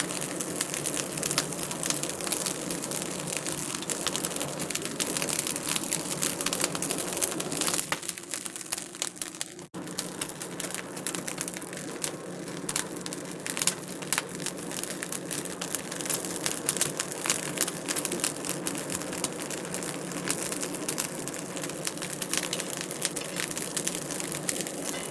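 Wood fire crackling in a fireplace, with many small pops and snaps over a steady hiss. It cuts out for an instant about ten seconds in.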